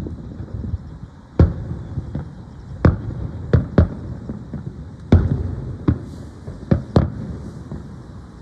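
Aerial fireworks shells bursting, a string of about eight sharp booms at uneven intervals, each trailing off in a low rolling echo.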